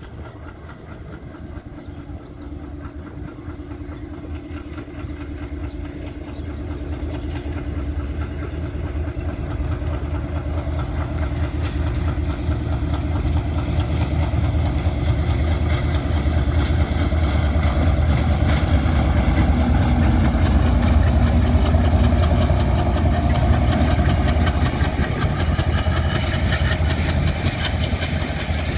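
Diesel locomotive hauling a broad-gauge passenger train, its low engine drone growing steadily louder as it approaches and passes close by. From about halfway in, a rapid rattle of wheels on the rails joins it.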